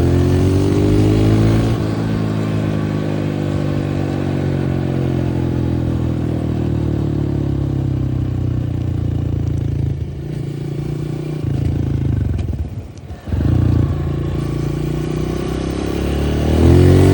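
Dirt bike engine on its stock exhaust, revving up at the start and then running at a steady pace. About thirteen seconds in the throttle drops off briefly before the engine picks up again, with a rising rev near the end.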